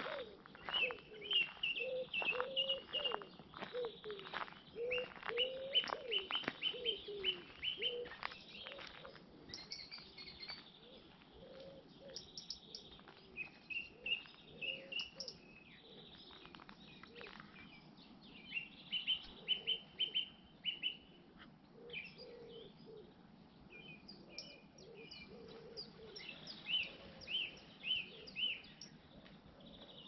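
Wild birds chirping and singing: quick runs of short high chirps again and again, with lower, rounder calls mixed in during the first several seconds.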